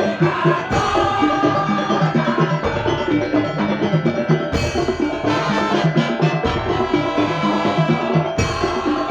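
Madurese daul (tongtong) music: a percussion ensemble of wooden slit drums, drums and pitched struck percussion playing a fast, steadily repeating rhythm.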